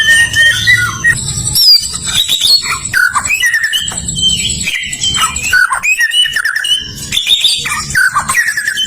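White-rumped shama singing a fast, varied run of whistles and trills, with notes gliding up and down and no pause.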